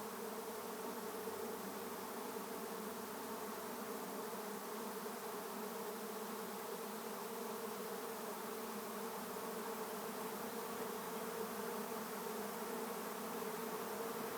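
Swarm of honey bees buzzing in the air, a steady dense hum that grows slightly louder toward the end: the swarm arriving with its queen to settle into a capture box.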